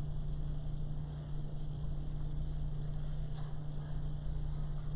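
Steady electrical mains hum in the recording, with a faint tick about three and a half seconds in.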